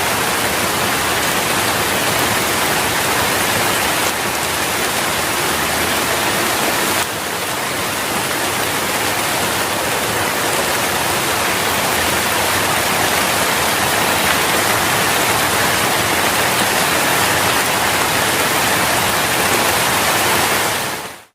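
Steady rain falling, a dense even hiss with a slight drop in level about seven seconds in; it fades out quickly at the very end.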